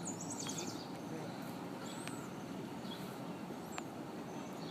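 Birds giving short, high chirps or whistles several times over a steady low outdoor background rumble.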